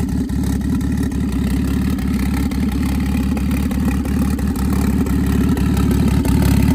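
BMW 335i's N54 turbocharged straight-six, converted to a single turbo, idling steadily. It is a cold start on E85 and the idle is a little rough.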